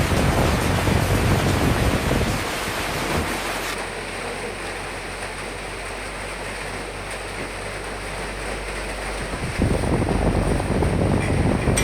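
Recorded wind and rain noise. The low rush of the wind drops away about two seconds in and comes back a couple of seconds before the end.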